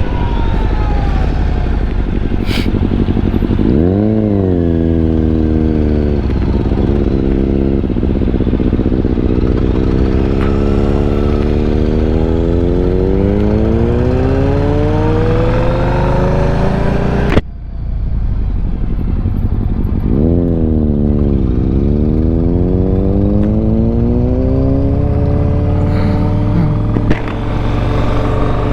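Yamaha Stratoliner's air-cooled V-twin engine under way, its pitch climbing steadily for several seconds at a time as the bike accelerates, with drops in pitch at gear changes or when the throttle eases. The sound cuts out briefly about two-thirds of the way in.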